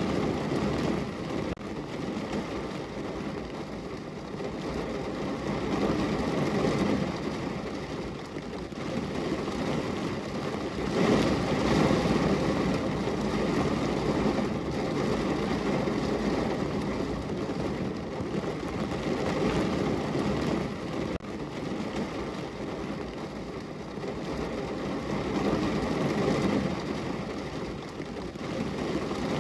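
Steady rain on a window: a dense, even hiss with a low rumble that swells and eases every several seconds, with a few faint drop ticks.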